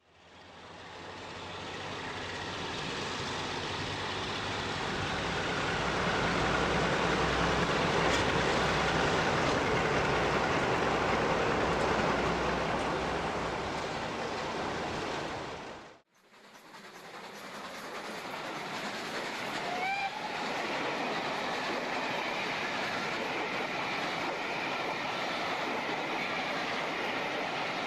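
British Rail diesel-hydraulic locomotive running with a train, its engine drone and the rumble of wheels on the track, heard in two separate takes that each fade in, with an abrupt cut a little past halfway. A short rising tone sounds a few seconds into the second take.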